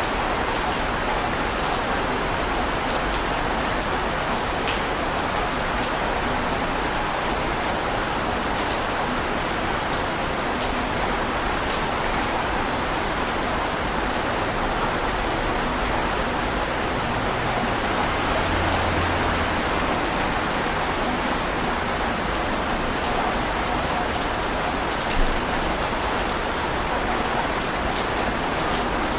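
Heavy rain falling steadily, an even dense hiss of rain, with one brief louder tap about 25 seconds in.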